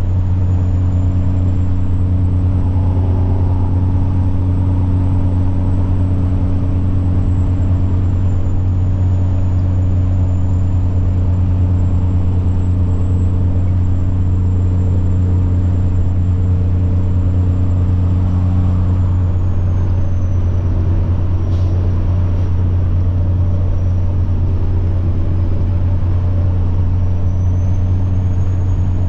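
Semi truck's diesel engine running steadily on the road with a deep rumble, over it a thin, high turbocharger whine that drifts slowly in pitch, falling about two-thirds of the way through and rising again near the end.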